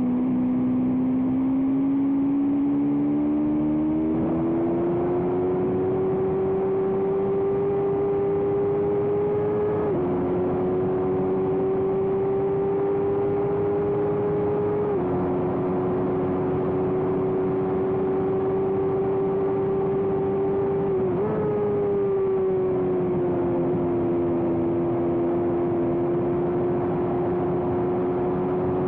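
Small-displacement racing motorcycle engine running hard at high revs, its note held nearly steady for the whole stretch. The pitch steps down slightly twice, then jumps up briefly and eases back down over a few seconds near the two-thirds mark.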